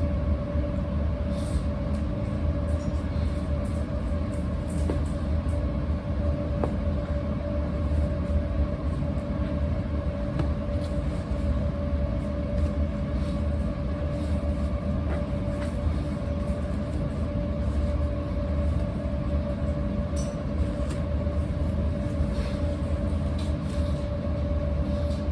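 A steady mechanical hum with a deep rumble and a constant whine, unchanging throughout, with faint scattered ticks over it.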